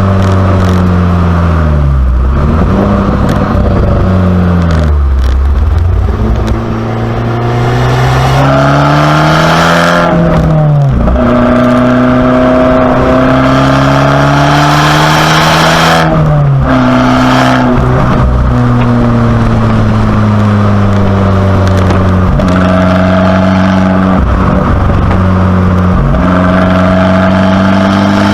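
Abarth 595C Competizione's turbocharged 1.4-litre four-cylinder engine, through a Record Monza exhaust, being driven through the gears. The revs climb steadily and drop sharply at each gear change, about eight times. About six seconds in, the revs fall as the car slows, and the engine then pulls hard again.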